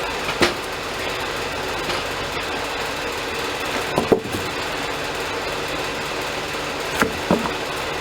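Band sawmill's engine running steadily, with a few short sharp knocks about half a second in, around four seconds in, and twice near the end.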